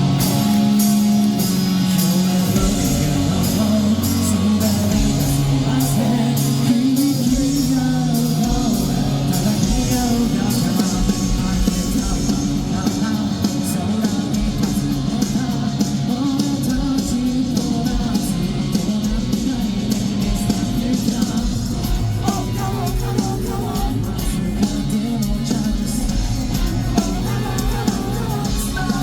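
Live rock band playing with electric guitars, bass, drums and a singer, heard through a fan's recording in a large hall.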